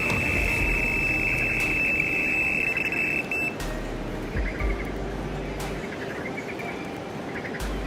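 Electronic carp bite alarm sounding one continuous high tone as line is taken off during a run, cutting off suddenly about three seconds in.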